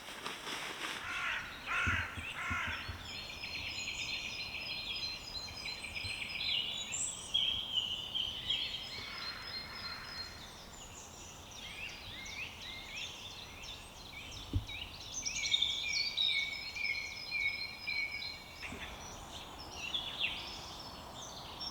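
Several woodland songbirds singing at once, overlapping chirps and trills in a dawn chorus. A single low knock sounds a little over halfway through.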